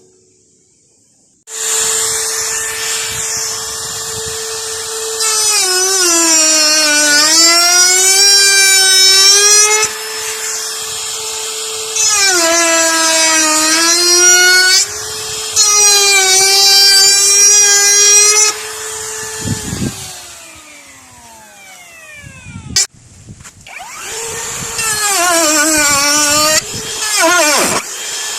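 Electric power tool motor running and cutting wood. Its pitch sags each time it bites into the wood and recovers between cuts. It winds down about two-thirds of the way through, then starts up and cuts again.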